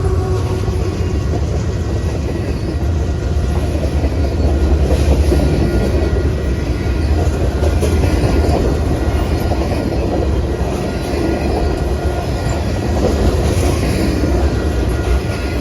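A train rolling past close by: a steady, loud rumble of railcar wheels on the rails with some clickety-clack, and faint thin wheel squeals above it.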